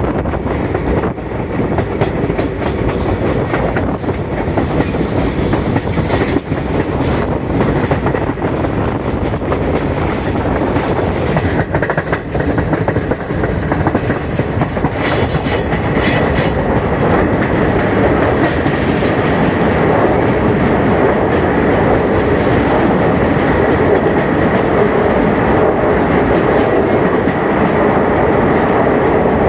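Passenger train running along the track: a steady rumble of wheels and carriage, with clusters of sharp clicks from the wheels about six seconds in and again around fifteen seconds in.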